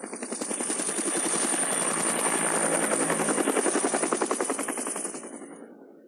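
A machine's rapid, even chopping drone that swells in, holds and fades away, like something passing by.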